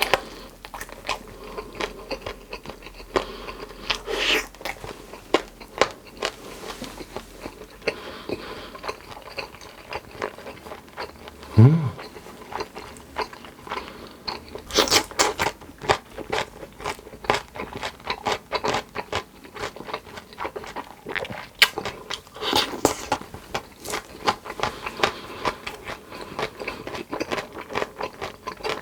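A person eating close to the microphone: crisp crunching bites and chewing, with heavier clusters of crunches about 4, 15 and 22 seconds in. A brief low rising sound comes about twelve seconds in.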